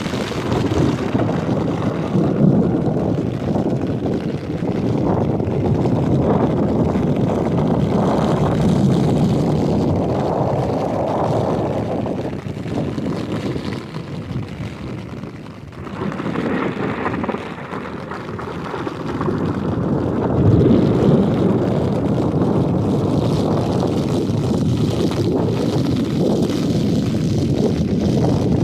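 Strong storm wind buffeting the microphone in uneven gusts, with a lull about halfway through.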